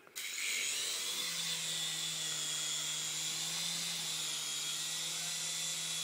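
Small remote-control toy helicopter's electric motors and rotors starting abruptly and spinning up within the first second, then a steady high-pitched whine and buzz as it flies.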